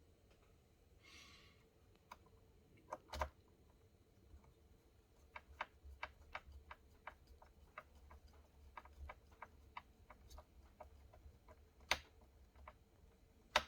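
Light, irregular clicks and taps of small hard objects being handled, about three a second for several seconds, with a few louder knocks before and after the run.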